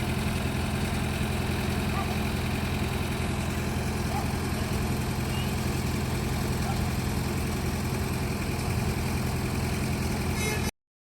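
Truck engine idling steadily with a low, even hum, cutting off suddenly near the end.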